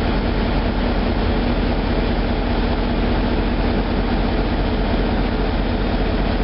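MaK 8M32 eight-cylinder four-stroke marine diesel main engine running steadily at about 600 rpm under load, a loud, even engine-room drone with a constant low hum.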